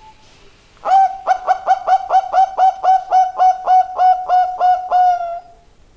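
Zebra dove (perkutut) singing: a quick, even run of short coos, about five a second, starting about a second in and closing on a longer held note near the end.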